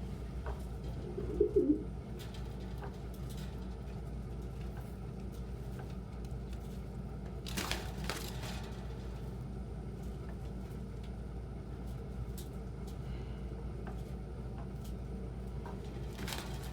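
Domestic pigeons cooing: one short coo about a second and a half in, over a steady low hum, with a brief rustle near the middle.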